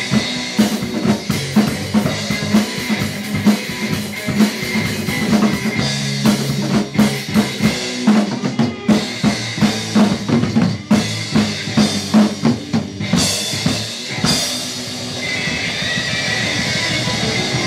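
Rock drum kit, with bass drum and snare, played hard along with a hard rock recording with bass and guitar. About fourteen seconds in the drum strokes stop, and a held final chord rings on.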